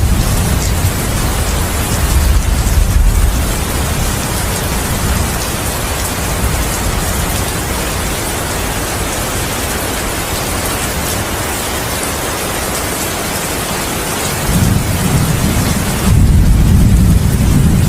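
Heavy rain falling steadily in a thunderstorm, with thunder rumbling during the first few seconds and rolling in again near the end.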